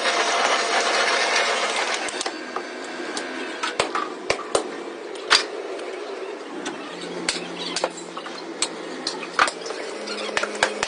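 Workshop machinery running with a dense rushing noise that drops away after about two seconds, then a low steady hum with many sharp, irregular knocks and clanks from metalwork.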